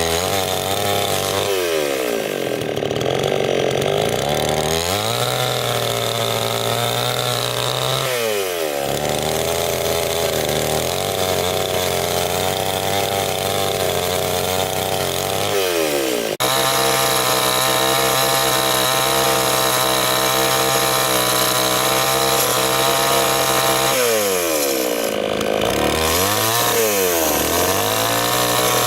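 Two-stroke chainsaw engine running hard, its revs falling away and climbing back several times. It breaks off abruptly about halfway through and resumes at full speed.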